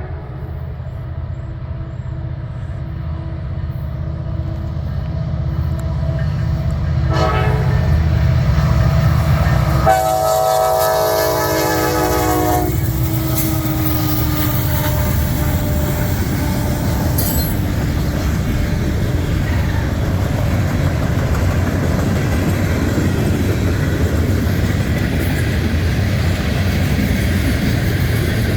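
A train passing close by: its horn sounds a short blast about seven seconds in and a longer blast around ten seconds in, the pitch dropping as it goes by, over the low rumble of the approaching locomotive. Then comes the steady rolling rush of the cars going past.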